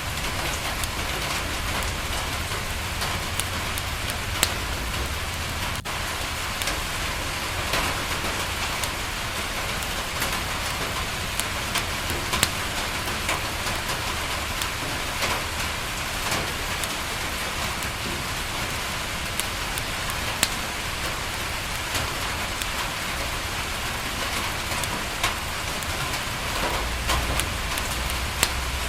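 Steady rain falling against a window, with scattered sharp ticks and pops over it and a low rumble underneath that swells near the end.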